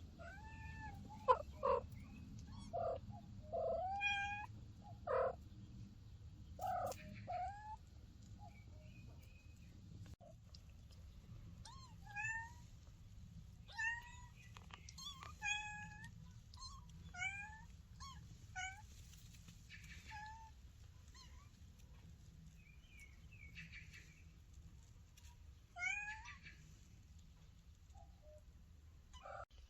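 Kitten mewing over and over: short, high calls that rise and fall, coming every second or so, with some lower, louder cries near the start. A steady low hum runs underneath.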